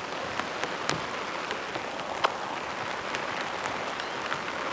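Heavy rain drumming on a nylon tarp overhead: a steady hiss with individual drops ticking sharply here and there. The rain is loud.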